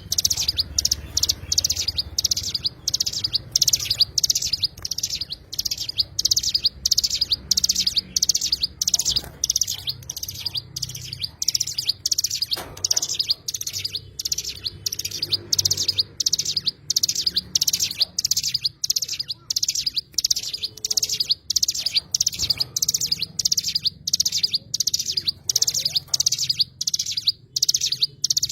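A songbird called a cigun chirping without a break, a fast run of short, high-pitched notes about two a second.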